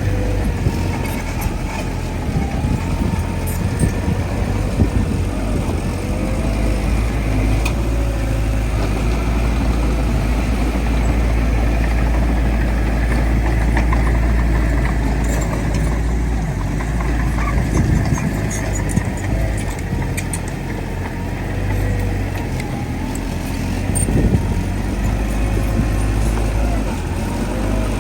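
Heavy earthmoving machine's diesel engine running continuously, its pitch wavering up and down as the load changes, with a few faint clicks and clanks over it.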